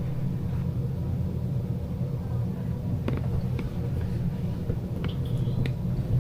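Steady low rumble of background noise, with a few faint clicks about three and five seconds in.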